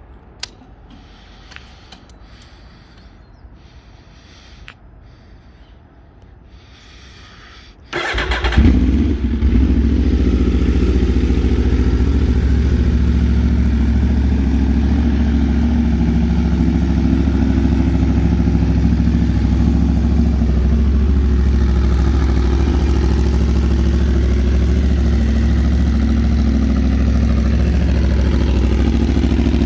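A few faint clicks, then about eight seconds in the Aprilia RSV4 RF's V4 engine, breathing through an aftermarket SC-Project exhaust, starts with a loud catch and settles into a steady, even idle.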